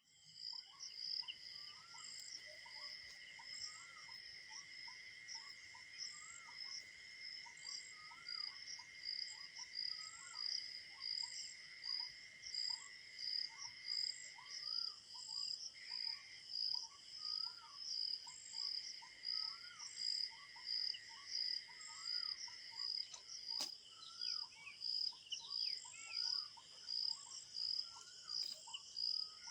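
Crickets chirping in a steady, fast-pulsing high trill over continuous lower insect buzzing, with a short call repeated over and over beneath it.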